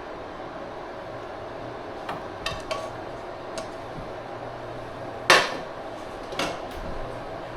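Kitchen clatter: dishes and utensils knocked and set down in a handful of separate clinks, the loudest a little past the middle, over a steady low background noise.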